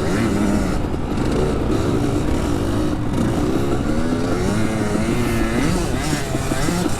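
Dirt bike engine revving, its pitch rising and falling again and again as the rider works the throttle and gears, building speed for a jump.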